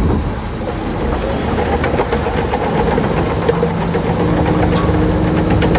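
Heavy diesel engine of earthmoving machinery running, pulling harder from about three seconds in, with scattered clanks and knocks over it.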